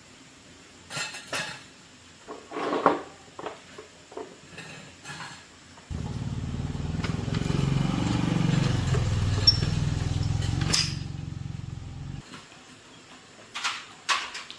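Clinks and knocks of metal tools being handled, then a small motorcycle engine starts about six seconds in, runs steadily for about six seconds and is switched off abruptly, followed by a few more clicks.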